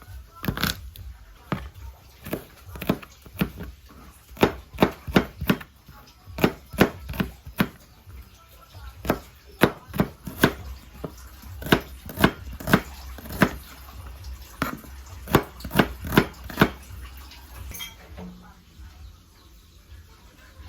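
Knife chopping on a cutting board, a steady run of sharp knocks about two a second that stops near the end.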